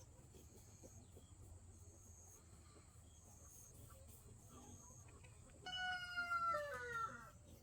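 A single drawn-out animal call near the end, about a second and a half long, sliding down in pitch.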